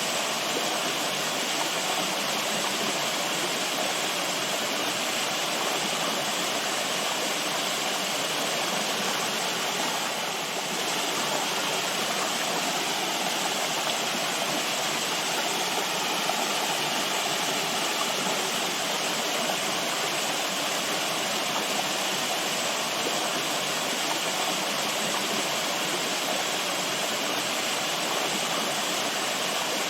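Running water rushing steadily and continuously, like a stream or small waterfall, with no pauses.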